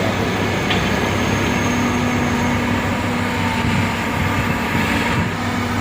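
A large diesel engine running steadily with a low, even drone.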